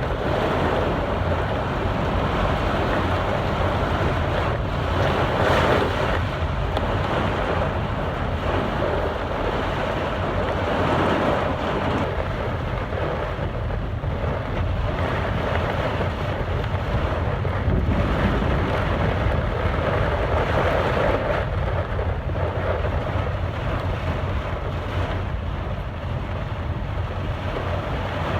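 Heavy rain pouring down in a steady hiss, with wind buffeting the microphone in a low rumble.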